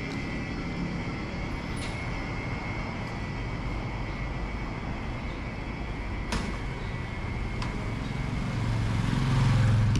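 Steady vehicle rumble with a faint high steady whine; a low engine hum swells near the end.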